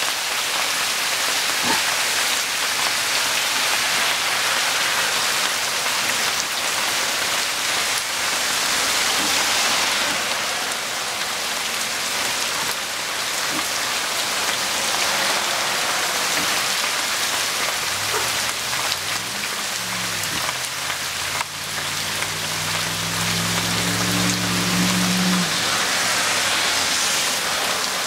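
Steady heavy rain pouring down during a rainstorm. About two-thirds of the way through, a low hum of several tones slides in, holds steady and then cuts off a few seconds before the end.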